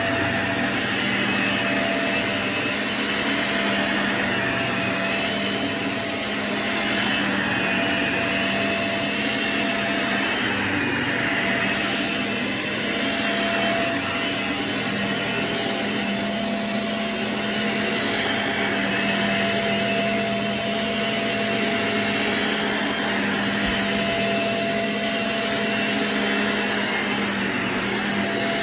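Shark Navigator Self-Cleaning Brushroll Pet upright vacuum (ZU62C) running steadily while being steered, with a steady motor hum and a hiss that swells and fades every few seconds.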